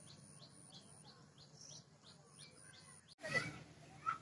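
A small bird calling faintly, a series of short, quickly falling high chirps repeated about three times a second. About three seconds in, a brief louder rustle-like noise cuts across them.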